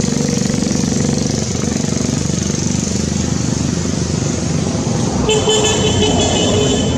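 A motor vehicle engine running close by, with a horn sounding once, steady in pitch, for about a second and a half near the end.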